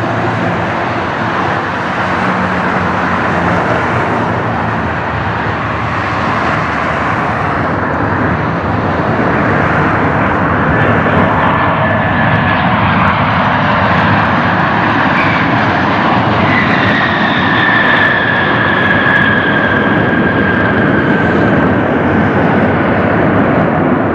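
Jet airliner's engines running loud and steady, with a high whine that slowly falls in pitch from about two-thirds of the way through as the aircraft passes.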